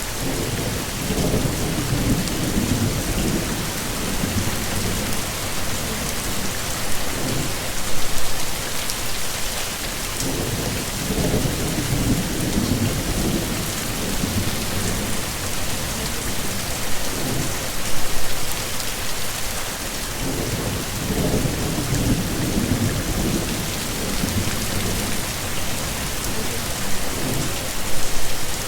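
Heavy rain falling steadily, with deep rolls of thunder swelling and fading about three times.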